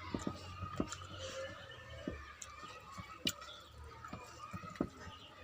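A person chewing a mouthful of rice and small fish curry, with wet mouth smacks and several sharp clicks.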